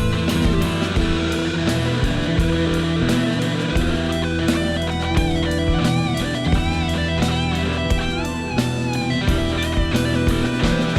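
Live rock band playing an instrumental passage: electric guitar lead with bending notes over sustained chords, bass and a steady drum beat.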